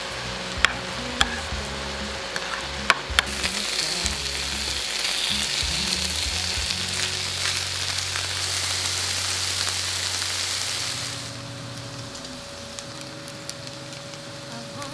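A spoon stirring sauce in a ceramic bowl, clinking sharply against the side a few times, then chicken pieces sizzling as they pan-fry in oil. About eleven seconds in the sizzle drops to a quieter hiss.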